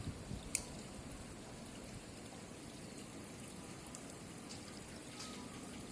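Faint, steady sound of water, with a single sharp click about half a second in.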